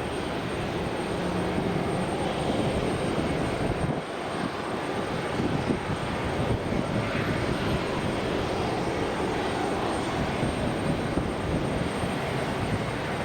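Jet airliner engines running, a steady even noise that neither rises nor falls.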